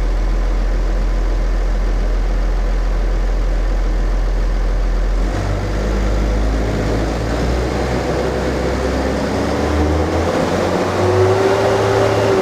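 New Holland tractor's diesel engine running at idle, then revved up about five seconds in, its pitch climbing steadily toward the end. The engine-driven viscous cooling fan can be heard working.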